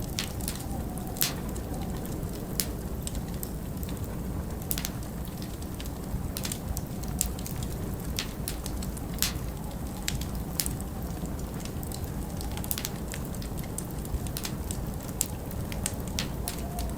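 Wood fire in a fireplace crackling, with sharp, irregular pops a few times a second over a steady low rumble.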